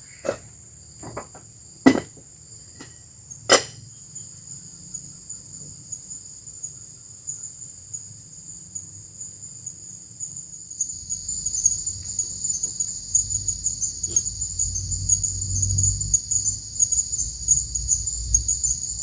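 Forest insects trilling in a steady, high-pitched chorus, with a few sharp knocks in the first few seconds and a low rumble that builds from about halfway through.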